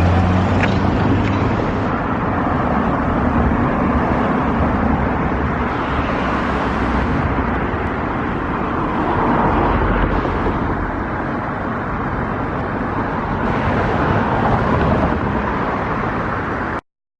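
A passing train making a steady, loud rumble with no clear tones that swells and eases slowly. It cuts off suddenly near the end.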